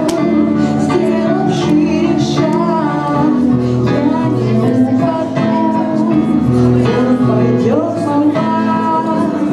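Live rock band music: guitars strumming steadily under a sung vocal melody, with regular beats.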